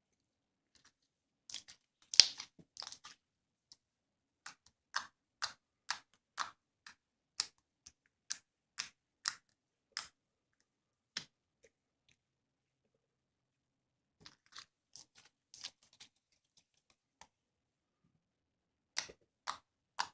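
A series of short, sharp clicks and taps with silence between them, running at about two a second for several seconds in the middle, with scattered clusters before and after.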